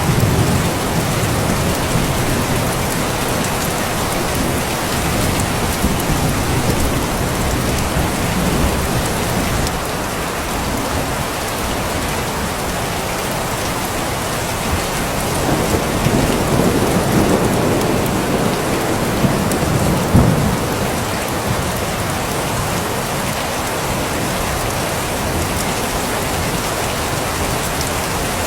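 Steady rain falling hard, with low rolling rumbles of thunder near the start and again a little past the middle.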